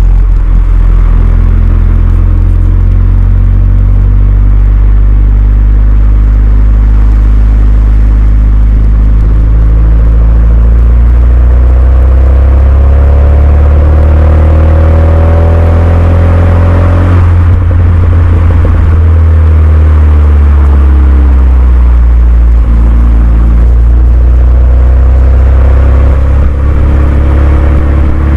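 Renault Mégane II RS's 2.0-litre turbocharged four-cylinder running through a Milltek cat-back exhaust, pulling under load: the engine note climbs steadily for several seconds, drops abruptly a little past halfway as at a gear change, then climbs slowly again.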